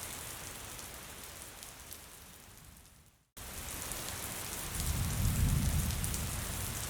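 Steady light rain that fades out to a moment of silence, then starts again abruptly; about a second later a low rumble swells and fades under the rain.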